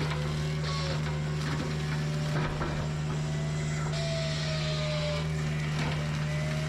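Kubota U55-4 mini excavator's engine running steadily under load while its hydraulic brush-cutter head chews through brush. A high squeal slides in pitch over the steady hum, and a few sharp cracks come through.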